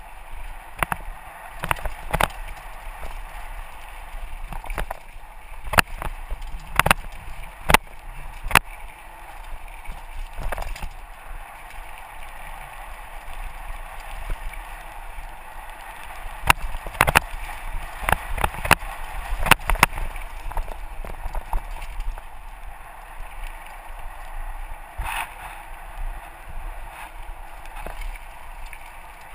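Mountain bike rolling down a rough dirt trail: a steady rush of tyre and wind noise on a helmet-mounted camera, broken by clusters of sharp clattering knocks as the bike bounces over bumps.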